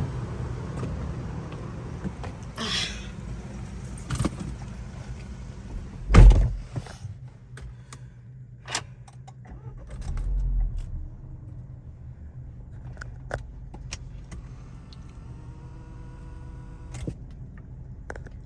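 A vehicle's engine idling with a steady low hum, with small clicks and jingling of keys or fittings. A car door slams shut with a heavy thud about six seconds in, and there is a softer thump around ten seconds.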